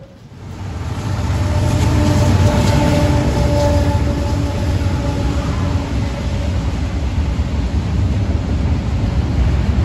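BNSF intermodal freight train passing close by: the diesel locomotive and then the double-stack container cars make a heavy, steady low rumble. The rumble swells up about a second in, and a few faint steady tones ride over it for several seconds.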